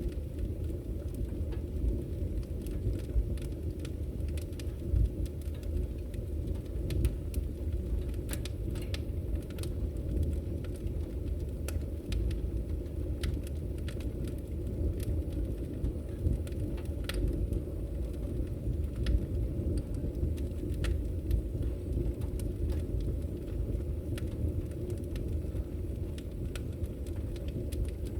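Wood fire burning in a fireplace: a steady low rumble of the flames, with scattered sharp crackles and pops from the burning logs at irregular intervals.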